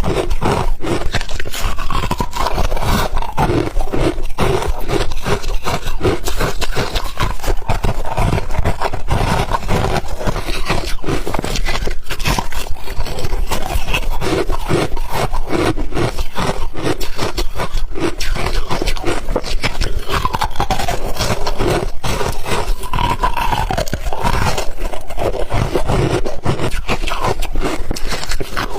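Close-miked crunching and chewing of ice, a dense run of irregular cracks and crunches that goes on without a break.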